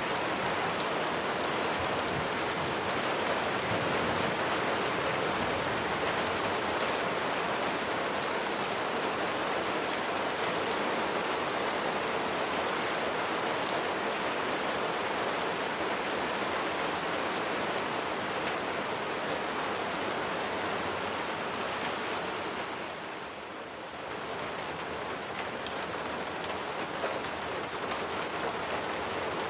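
Steady rain falling on a surface, a continuous hiss with single drops ticking through it. The level sags briefly about three-quarters of the way through, then recovers.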